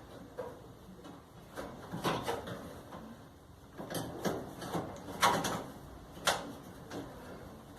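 Irregular knocks, clicks and clunks of clothes-dryer parts being handled and fitted back together during reassembly, the loudest knocks a little past five seconds in and about six seconds in.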